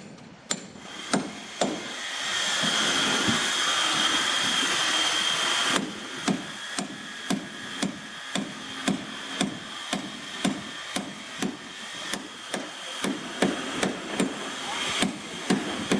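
Hammer striking wood in a steady rhythm, about two blows a second. A steady hiss with a high whine runs under the blows from about two seconds in until nearly six seconds, then stops suddenly.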